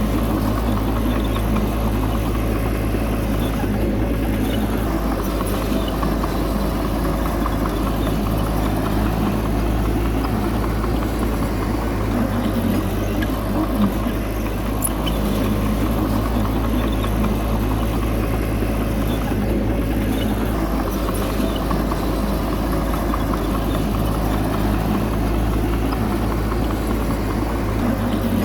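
Bulldozer's diesel engine running steadily with a constant low hum.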